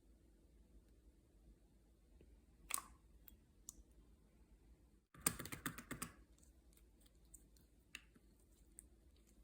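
Faint clicks over a low hum: one sharp click a little under three seconds in, then a rapid cluster of clicks for about a second, starting some five seconds in.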